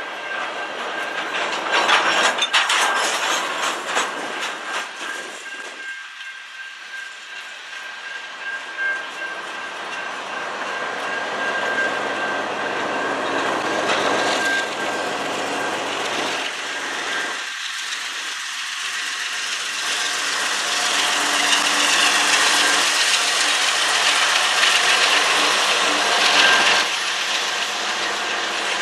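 Covered hopper cars of a CN potash freight train rolling past: steady rumble and rattle of steel wheels on rails, with a cluster of wheel clicks over rail joints about two to four seconds in. A steady high ring sits under the noise, and the rolling grows louder in the second half.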